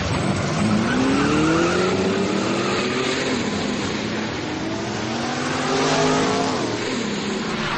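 Bugatti Veyron's quad-turbocharged W16 engine accelerating hard, its note climbing in several rising sweeps as it pulls through the gears, then dropping near the end.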